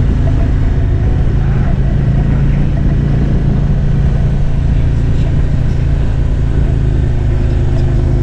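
Harley-Davidson Electra Glide's V-twin engine running at a steady cruise, a low even hum with wind and road rumble.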